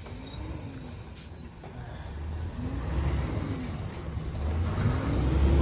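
Diesel semi-truck engine revving up and easing off three times, each rev louder than the last, as the truck is rocked back and forth to break free on ice.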